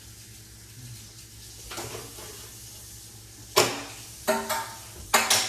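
A utensil clinking against cookware and dishes, about five sharp strikes with a brief ring in the second half, over a faint steady hum.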